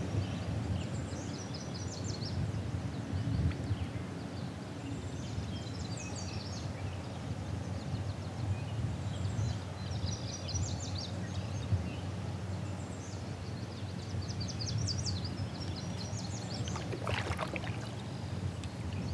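A bird sings short phrases of quick high notes every few seconds over a steady low rumble of outdoor noise. Near the end there is one brief sharp sound.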